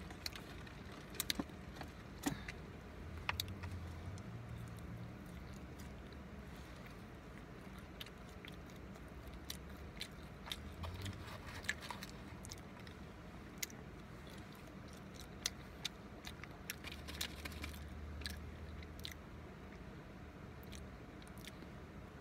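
A person chewing a mouthful of McDonald's fast food with the mouth closed, close to the microphone: irregular wet mouth clicks and smacks over a low steady hum.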